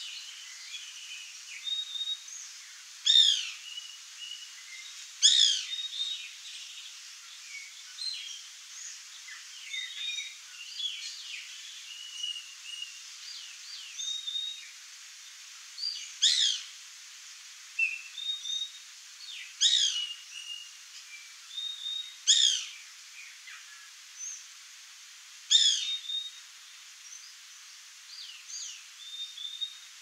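Several wild birds calling: a loud, short, harsh call comes six times, a few seconds apart, over a steady background of many faint chirps and whistles.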